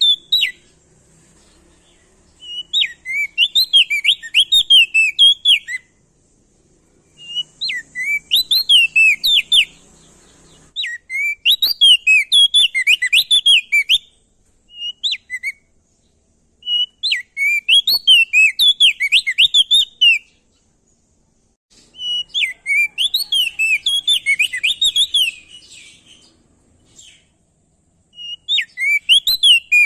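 Prenjak daun (opior jambul) songbird singing: about six loud song phrases, each a quick run of rising and falling whistled notes lasting two to four seconds, separated by short pauses.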